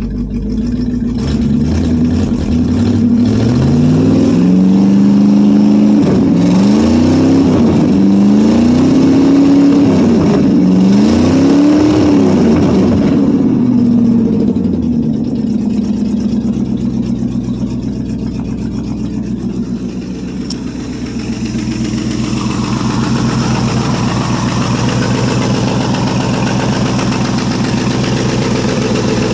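A 1973 International 1210's 345 V8 running. It is revved up, blipped up and down about three times, then settles to a steady idle about halfway through.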